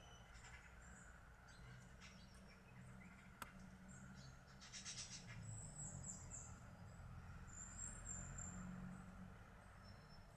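Faint, high bird chirps and short calls, with a quick run of notes about five seconds in and thin high whistles after it, over a low steady rumble. A single sharp click comes about three and a half seconds in.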